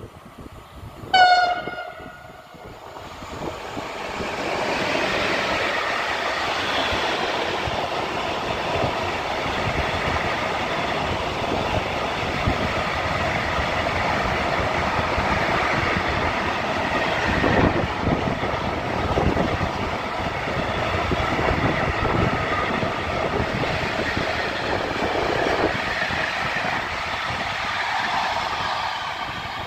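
Electric locomotive X4EC-046 gives one horn blast about a second in: the Rp1 'attention' warning. A long container freight train then passes through the station, its wheels and wagons making a steady loud noise on the rails.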